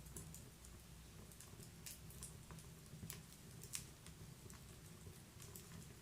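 Wood fire crackling in a fireplace, faint: irregular sharp pops and snaps over a low steady rumble, the loudest snap just before four seconds in.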